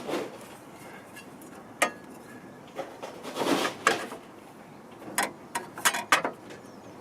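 Metal parts and hand tools being handled: a few sharp knocks and clinks, a short scraping rustle about halfway through, and a quick cluster of clinks near the end.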